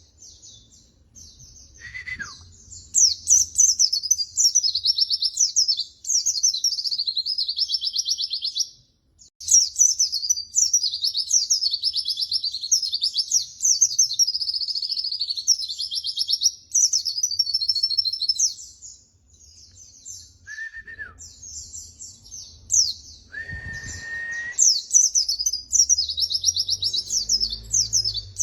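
White-eye (pleci) singing long, rapid, high-pitched twittering song phrases, broken by brief pauses. A few lower whistles slide downward between phrases.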